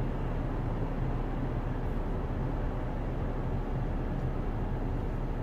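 Steady low rumble inside a Jaguar F-Pace's cabin while the car runs, with no sound coming from its radio.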